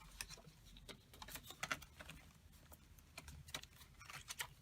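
Paper pieces and journal pages being handled and shuffled: scattered, irregular soft clicks, taps and rustles.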